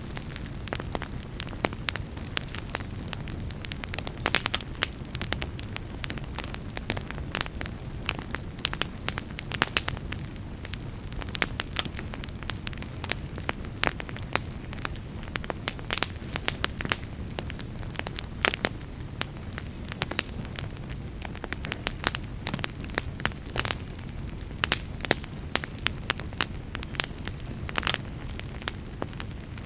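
Campfire burning: a steady low rumble of flame with many sharp, irregular crackles and pops of burning wood.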